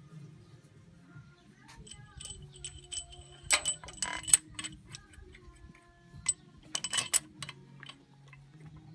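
Metal tools and engine parts clinking and clattering, in two short bursts about three and a half and seven seconds in, with lighter ticks between, over a low steady hum.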